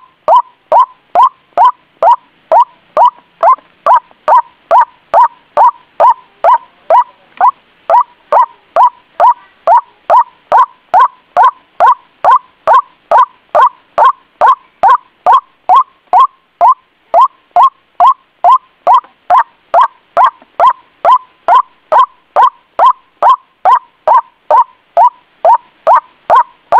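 White-breasted waterhen (ruak-ruak) call played as a bird lure: a loud, monotonous, evenly spaced series of short calls, about two a second, each dropping in pitch.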